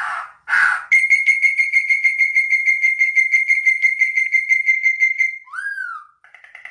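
Songbird singing: a short harsh buzzy note, then a long rapid trill on one steady pitch for about four seconds, then a brief slurred whistle and the start of another trill near the end.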